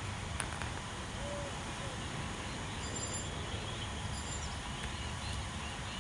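Steady outdoor background noise with a low rumble, and a few faint, brief bird chirps.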